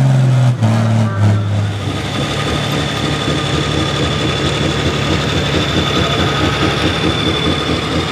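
Pro stock pulling tractor's turbocharged diesel engine held at steady high revs, dropping in pitch about half a second in as the throttle comes off. It then settles into a lumpy, uneven idle with a steady high whine over it.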